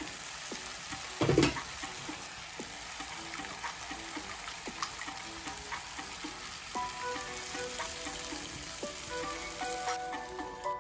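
Potatoes frying in a pan with a steady sizzle and a single knock about a second in; the sizzle drops away near the end. Soft background music comes in about halfway.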